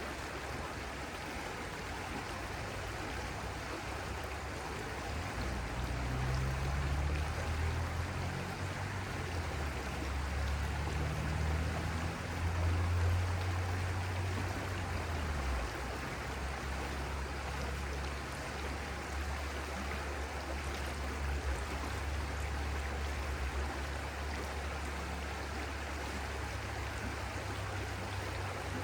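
Stream water flowing steadily, with a low rumble underneath that swells for several seconds in the first half.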